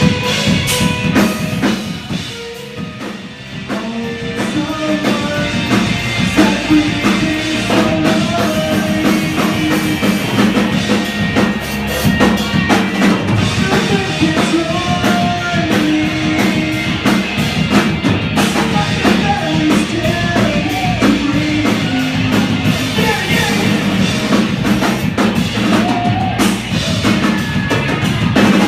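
A rock band playing live: drum kit, bass and electric guitar with a lead vocal, recorded in the room. The band drops back briefly about two seconds in, then comes in full again.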